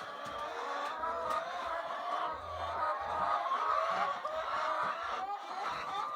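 A flock of chickens clucking and calling, many short overlapping calls running on without a break.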